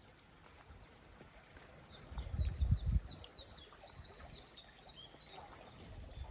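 A small bird singing a quick run of about ten short, high, falling notes, with a brief low rumble, the loudest sound, about two seconds in.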